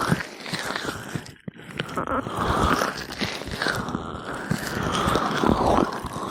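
Gloved hands rubbing oil over an ear microphone, a close, wet crackling and squishing that swells and fades in slow strokes, with a brief pause about a second and a half in.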